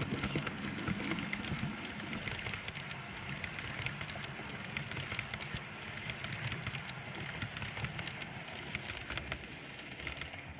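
Model railway locomotive running on layout track: a steady motor and wheel rumble with many small irregular ticks and clicks.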